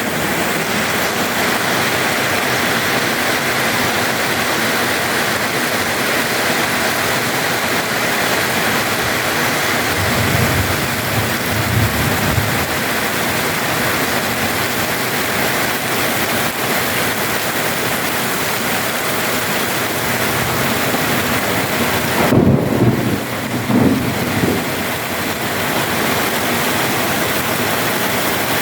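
Heavy rain pouring steadily, a loud even hiss. Low rumbles come twice, about ten seconds in and again a few seconds before the end.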